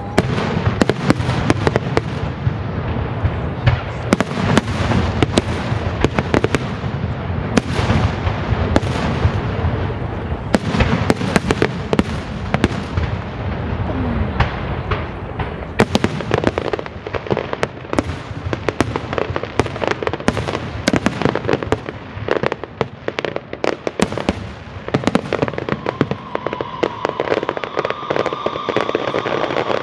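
Aerial fireworks display: a dense, unbroken barrage of bangs and crackling, the sharp reports overlapping one another throughout.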